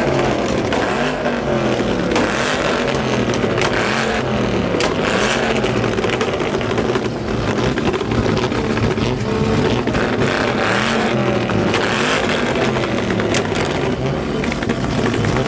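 Car engines revving again and again, the pitch rising and falling every second or two.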